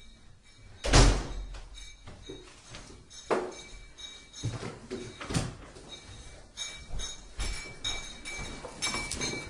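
A loud thump about a second in, followed by several fainter knocks and thuds, in a binaural horror sound recording.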